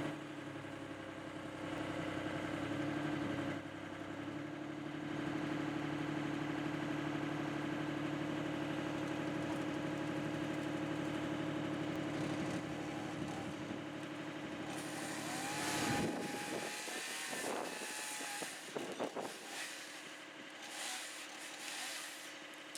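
An engine running steadily. About two-thirds of the way in, its sound breaks with a short falling tone, followed by irregular knocks and rustling noise.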